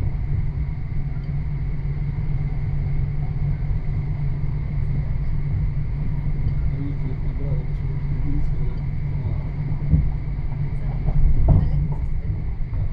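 Interior of a Copenhagen S-train electric commuter train running at speed: a steady low rumble of the wheels on the track with a faint steady high whine. There are a couple of louder knocks about ten and eleven and a half seconds in.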